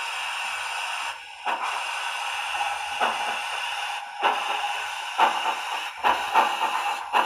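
HO scale model steam locomotive's Soundtraxx Tsunami sound decoder, played through the model's small speaker. A steady steam hiss runs for about the first second. The exhaust chuffs then start slowly and come faster as the engine pulls away.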